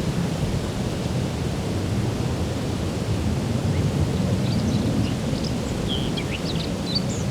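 A steady low rumbling noise, with scattered birds chirping that become more frequent over the last few seconds.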